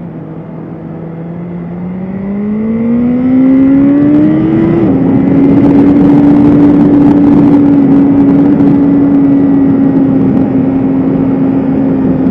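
BMW S1000RR's inline-four engine accelerating, its note rising for a few seconds. It drops sharply in pitch at an upshift about five seconds in, then holds a steady, loud note at constant throttle.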